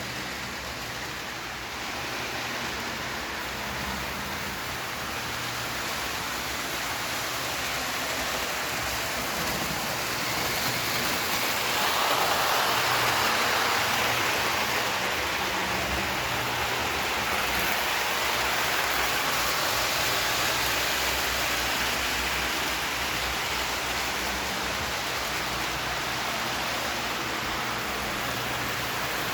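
Lionel O scale model trains running on three-rail track: a steady rushing of wheels and motors, growing louder about twelve seconds in as a train passes close.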